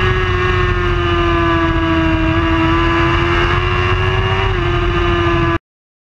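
Racing superbike engine running at high revs, its pitch holding nearly steady with slight small dips. About five and a half seconds in, the sound cuts off abruptly to dead silence.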